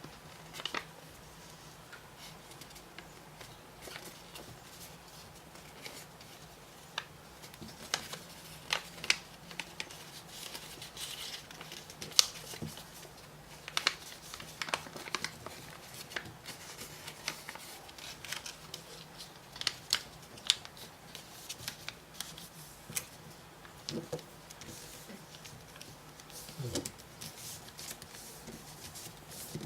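A sheet of origami paper being folded and creased by hand: irregular crinkles, rustles and sharp little taps, with a faint steady low hum underneath.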